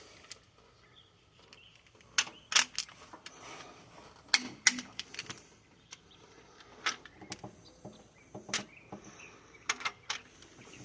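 Click-type torque wrench clicking as each Cummins cylinder head bolt reaches its set 125 ft-lb, in the final verification pass. Sharp metallic clicks come several times, mostly in close pairs.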